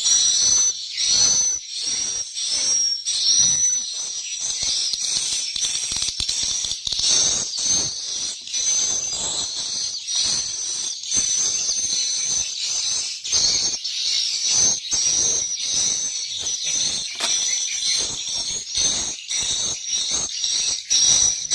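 Swiftlets twittering continuously in high, shrill calls, with rapid dry clicking throughout.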